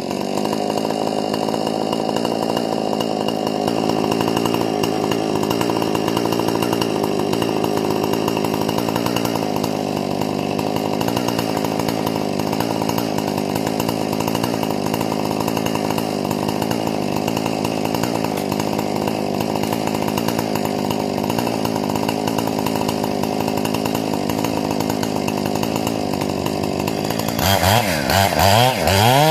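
Husqvarna 460 chainsaw with a modified carburetor and muffler running steadily at a lower engine speed, then revving up again with a wavering, climbing pitch near the end.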